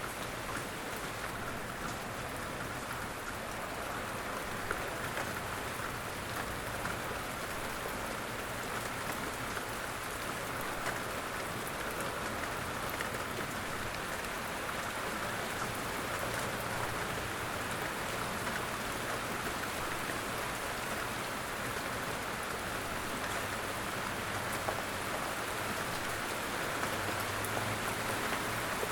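Steady light rain falling through woodland, an even hiss of rain with scattered drips and patters. A low rumble builds near the end.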